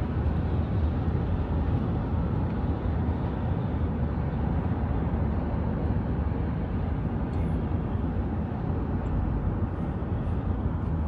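Steady road noise of a moving car heard from inside the cabin: a constant low rumble under an even hiss of tyres and wind.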